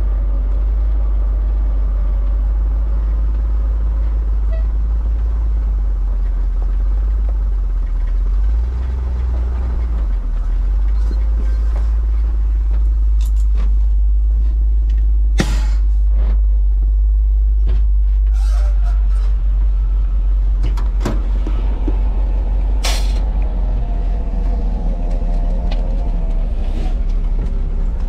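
Vehicle engine running steadily with a deep, low sound, with a few sharp knocks partway through.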